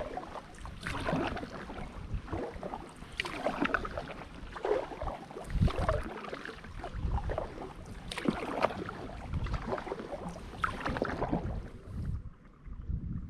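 Kayak paddle blades dipping and splashing in the water, a stroke about every two seconds, while paddling an Itiwit X100+ inflatable drop-stitch kayak. The splashing stops near the end.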